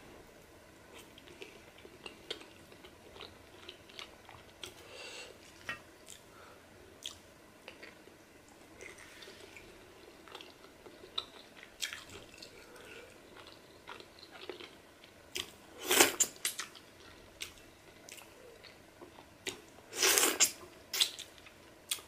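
Close-miked mouth sounds of a person chewing and biting pieces of pork from a pepper soup: soft, wet smacks and small clicks, with two louder clusters about two-thirds of the way in and near the end.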